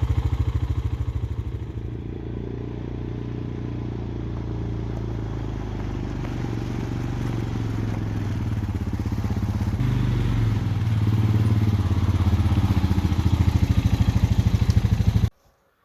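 ATV engine running at low speed with a steady putter, easing off about two seconds in and picking up again from about ten seconds on, then cutting off suddenly just before the end.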